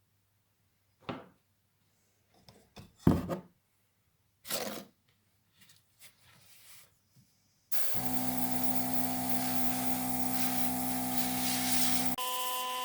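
Brief scattered rubbing and scraping sounds, then a steady machine-like hum with hiss that starts about eight seconds in and shifts to a higher set of tones near the end.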